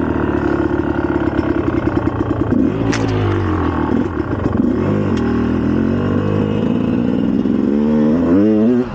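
2004 GasGas EC300 single-cylinder two-stroke dirt bike engine running under changing throttle while riding. The revs dip and climb again about halfway through, and quick rising blips of revs come near the end, with a sharp knock about three seconds in.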